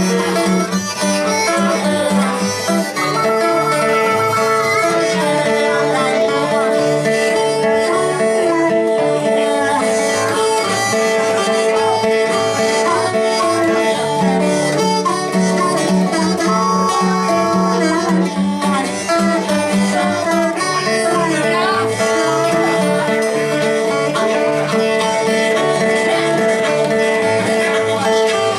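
Live blues band playing an instrumental break with no singing: guitar over a steady bass pulse, with long held, bending notes that fit the harmonica.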